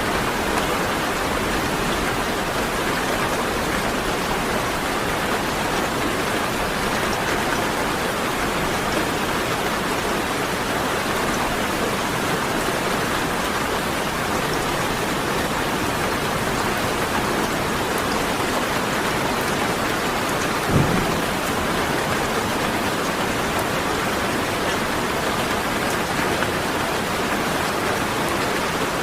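Steady rain falling, with one short low thump about two-thirds of the way through.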